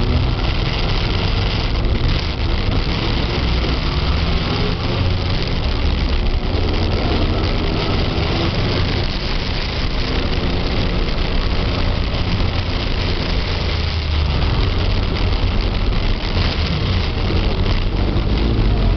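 Motorcycle engine running steadily, with a constant rushing noise over it.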